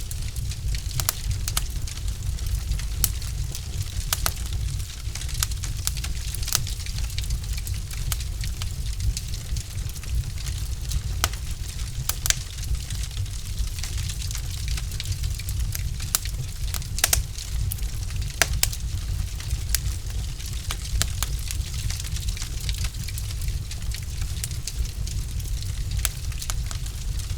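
Logs burning in a fireplace, crackling with irregular sharp pops and snaps over a steady low rumble and hiss.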